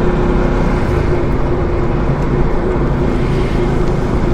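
Motorcycle engine running steadily while riding at cruising speed: an even hum over a constant rush of noise, unchanged throughout.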